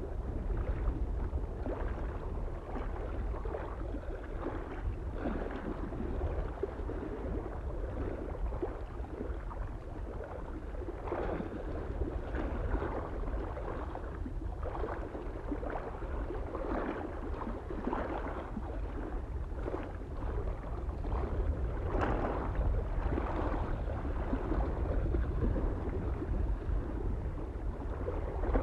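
Small waves lapping and splashing irregularly against a lake shore, over a steady low rumble of wind on the microphone.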